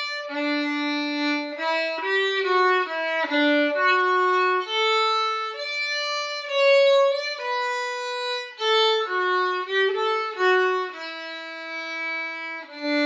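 Violin playing a method-book exercise: a melody of separate bowed notes moving up and down by step, with brief breaks between some notes. A new note starts near the end.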